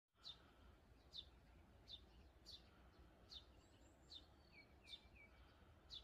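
A single bird calling faintly: a short, high, downward-sliding note repeated about every three-quarters of a second, with a few brief lower notes near the end, over a faint low rumble.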